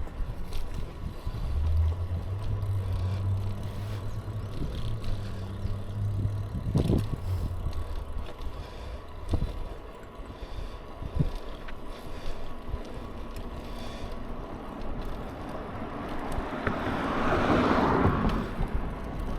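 Riding noise on a bicycle along a road: wind on the microphone and a steady rush, with a few light clicks. A vehicle passes with a swelling rush near the end.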